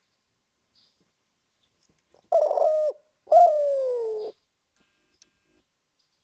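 Spotted dove (derkuku) cooing: two coos a little over two seconds in, the second one longer and falling in pitch.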